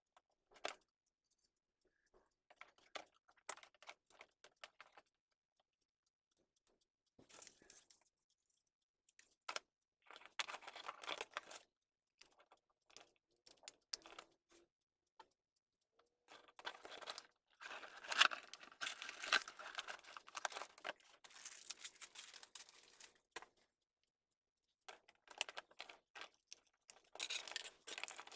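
Hands handling computer parts and their plastic packaging: irregular bursts of crinkling and rustling mixed with small clicks and taps, with short pauses between them.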